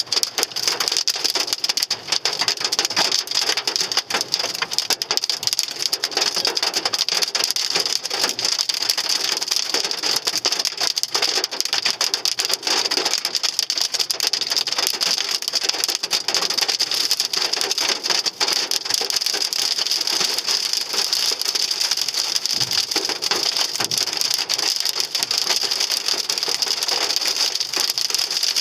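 Hailstones, with rain, pelting a Hyundai Sonata's metal body in a dense, unbroken clatter of hits over a steady hiss; the hail is big enough to dent the car.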